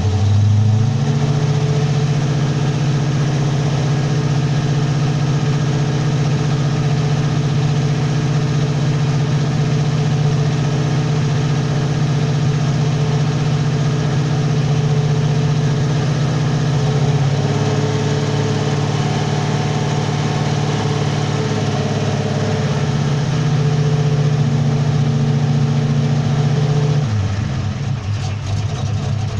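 Ford 351 Cleveland V8 with a 400 cam running at a steady raised idle after a cold start. Its speed steps up about a second in, sags slightly about halfway through, then drops back to a lower, lumpier idle near the end.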